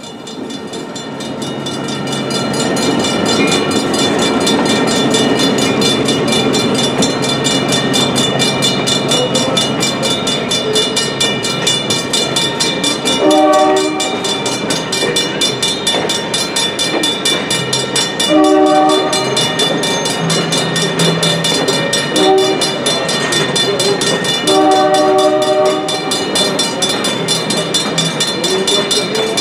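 A diesel-led passenger train rolling through a grade crossing, its cars rumbling and clicking over the rails, growing louder over the first few seconds. A crossing bell rings steadily throughout. About halfway in, the CF7 locomotive's air horn sounds the long, long, short, long grade-crossing signal.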